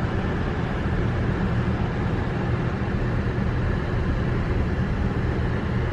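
Steady road and engine noise inside a moving car's cabin: an even rush over a low hum.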